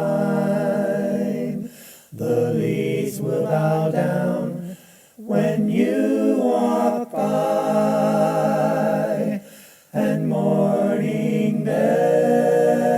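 A cappella male singing, in what sounds like layered harmony, with long held notes broken by short pauses about 2, 5 and 10 seconds in.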